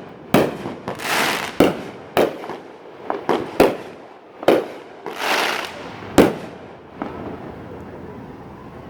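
Aerial fireworks going off: about seven sharp bangs in the first six seconds, some followed by hissing rushes a second or so long. The bangs stop about seven seconds in.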